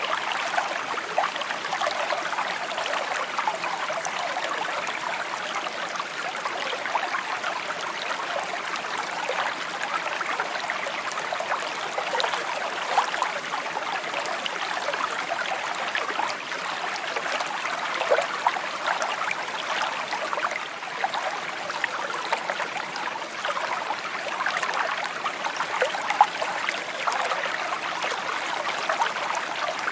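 A small stream babbling over stones, a steady trickling and gurgling with many small splashes.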